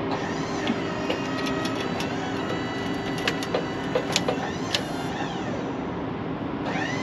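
Wood-Mizer portable sawmill running: a steady machine hum with a whine that rises and falls in pitch, and a handful of sharp clicks or knocks between about three and five seconds in.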